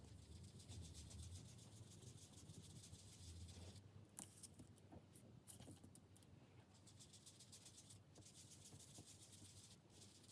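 Faint rubbing of a wooden-handled foam ink-blending tool worked over paper in quick repeated strokes, blending Distress Oxide ink through a stencil, with a few brief pauses.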